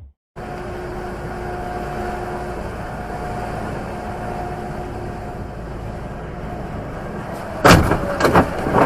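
Steady road and engine noise of a vehicle driving, then a sudden series of loud bangs near the end, like a collision.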